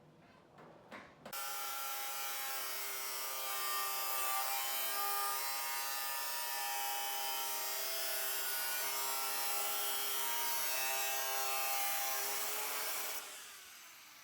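A handheld power tool running steadily for about twelve seconds, starting about a second in and winding down near the end.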